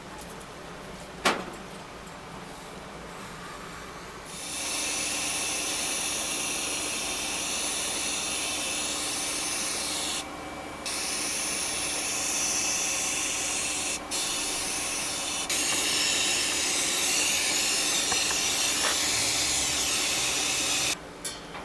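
Compressed air hissing steadily from an air-driven spray or blast gun, in long bursts with a short break near the middle and a louder, fuller stretch near the end. A single sharp click comes about a second in, before the hiss starts.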